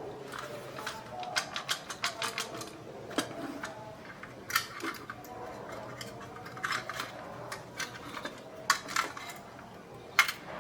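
Irregular light clicks and taps of small hard plastic parts and tools being handled during a toy repair, with short pauses between them.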